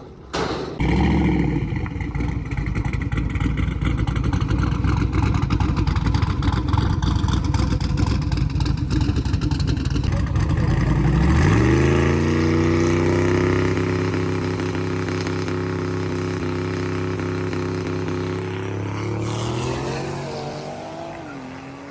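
Car engine at full throttle, a loud rough exhaust note that starts abruptly about a second in. About halfway through, a high pitch climbs steeply and then holds steady, and the whole sound fades away near the end.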